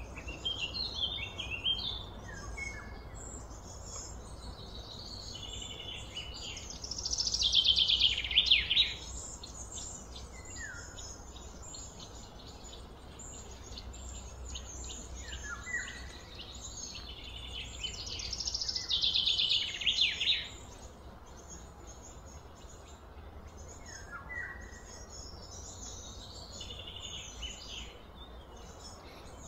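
Birds singing outdoors: two loud, rapid trilled phrases, about a quarter of the way in and again about two-thirds through, with short down-slurred chirps scattered between, over a steady low background hum.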